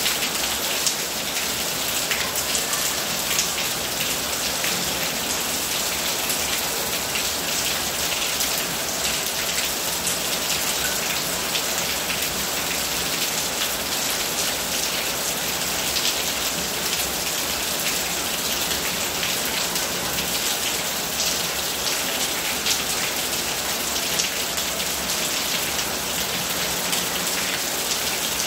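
Steady heavy rain falling on hard surfaces, a continuous hiss dotted with countless close drop impacts.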